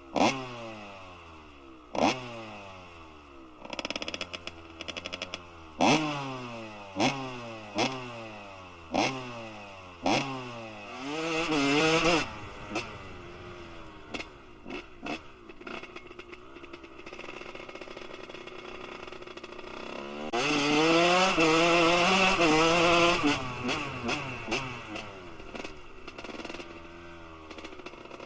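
Kawasaki KX125 two-stroke single-cylinder dirt bike engine with a Pro Circuit R-304 shorty silencer and Keihin PWK38 carburettor, revved in a series of quick throttle blips that fall back to idle. Revs are then held high for about a second, and again for about three seconds near the end, with the engine idling between.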